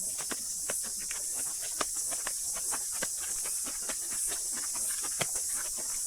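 Cicada chorus in native bush: a dense, steady, high-pitched buzzing, with scattered irregular clicks over it.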